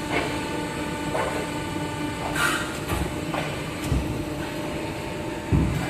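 CNC bending machine running with a steady hum, a short hiss about two and a half seconds in and two low thuds near the end.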